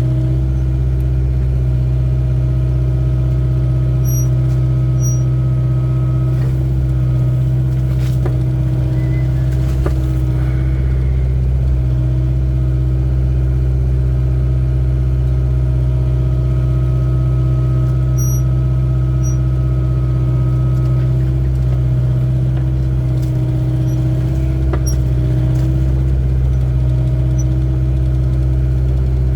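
Excavator's diesel engine running at a steady pitch and level, with a few faint knocks.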